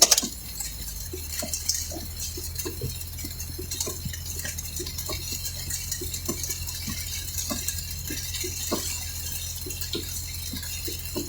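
Light rain hitting a car's roof and windshield in many small, scattered taps over the steady low hum of the running vehicle, heard from inside the cabin. A sharp knock comes right at the start.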